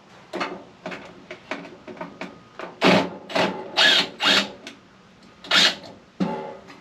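A screwdriver or driver working screws out of a microwave's sheet-metal casing: a series of short, irregular scraping and rattling bursts, loudest around the middle.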